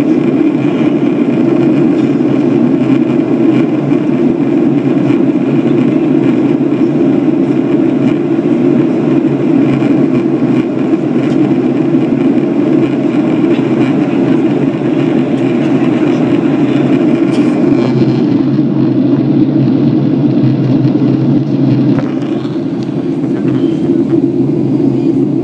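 Boeing 737-800 cabin noise in flight: a steady, loud low rumble of the engines and airflow with a few steady tones in it. The higher hiss thins out about three-quarters of the way through.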